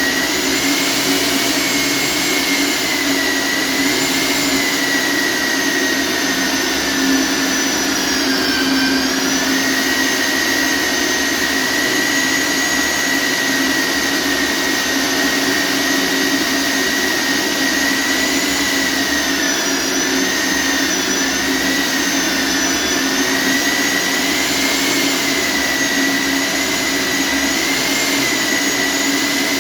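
Core drill's electric motor running continuously with a high whine that wavers slightly in pitch and sags briefly about eight seconds in, as under load.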